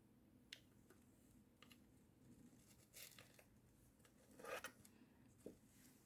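Near silence with a few faint clicks and rustles, the loudest about four and a half seconds in, from moss being handled and pressed into a small terrarium container.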